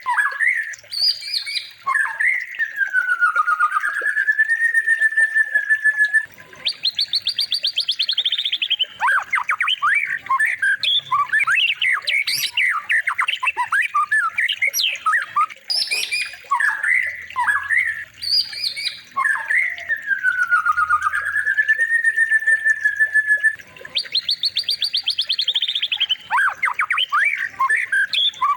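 Looped birdsong training recording for white-rumped shamas: fast rattling trills, sharp squawky notes and a long whistled note that dips and then holds steady, the same sequence repeating about every 15 seconds.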